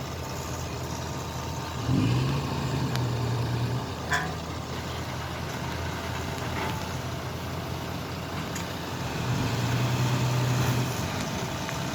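Car engine running and revving up twice, each time for about two seconds: once about two seconds in and again near the end.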